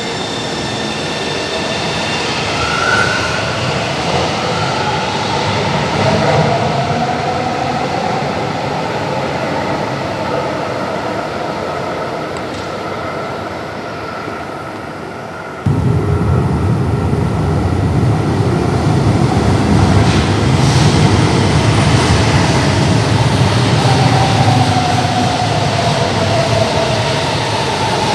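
São Paulo Metro train's electric traction motors whining as it moves through the station, the pitch gliding up and then down, over a steady rumble of wheels on rail. About halfway through, the low rumble jumps abruptly louder.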